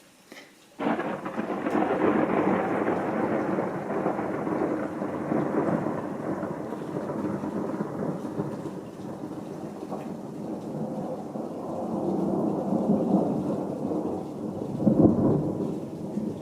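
A thunderclap breaks suddenly about a second in, then rolls on as a long rumble that fades slowly and swells again twice near the end. Heavy rain falls with it.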